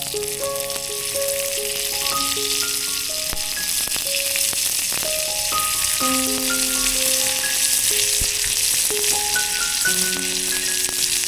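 Food frying in hot oil, a steady sizzle, under background music playing a slow melody of single held notes.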